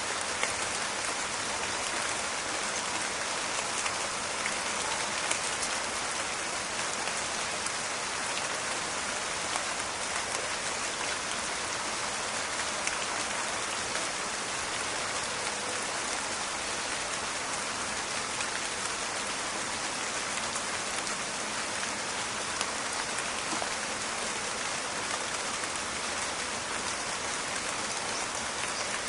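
Steady rain falling, with many small crackling drop impacts over an even hiss.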